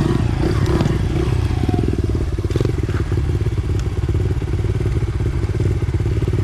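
Dirt bike engine running steadily at low to moderate revs, with its firing pulses even throughout. A couple of short clacks come about two and a half and three seconds in.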